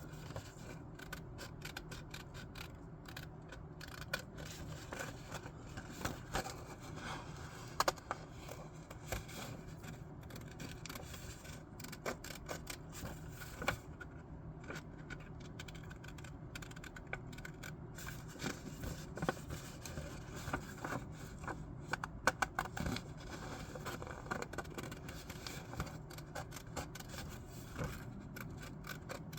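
Scissors cutting paper: irregular snips and scraping of the blades through the sheet, with a few sharper clicks.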